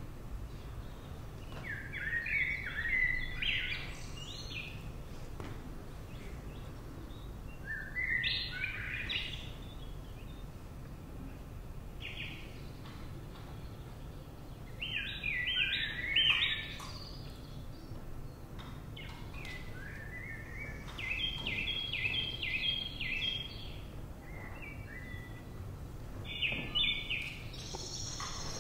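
Songbird singing: short phrases of quick, high repeated chirps and trills every few seconds, over a steady low hum.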